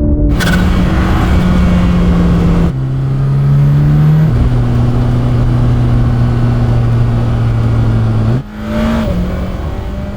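Mercedes-AMG GT Black Series flat-crank twin-turbo V8 running under a loud rush of road and wind noise, its engine note holding steady and then stepping down twice, as on upshifts. About eight seconds in the rush fades and the note rises briefly.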